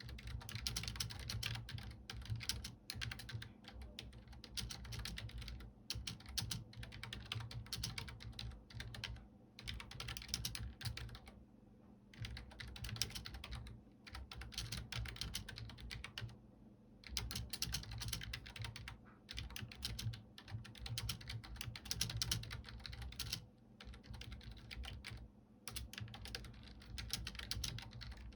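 Computer keyboard being typed on in quick, continuous runs of key clicks, broken by brief pauses every few seconds, over a steady low hum.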